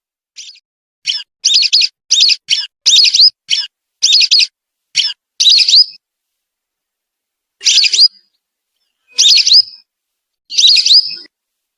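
Lesser whistling duck (belibis) calling: a quick run of short, clear whistles, then three separate calls spaced a second or more apart near the end.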